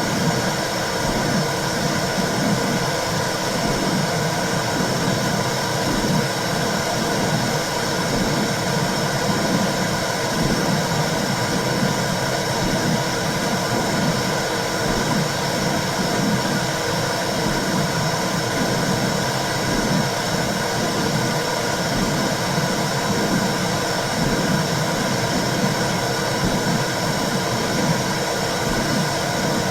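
Recorded womb sound: a steady whooshing hiss with a low, regular pulsing underneath.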